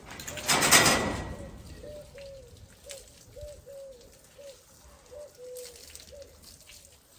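A loud rush of noise about half a second in that fades within a second, then a run of short bird calls at one steady pitch, about two a second.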